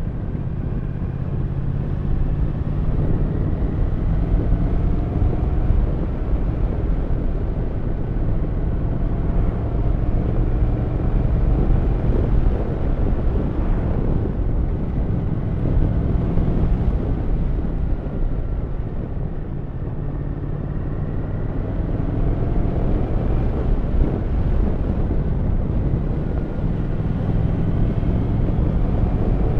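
Triumph Thruxton 1200 RS parallel-twin motorcycle engine running on the move, its pitch climbing several times as the bike pulls through the revs, over steady wind and road rumble.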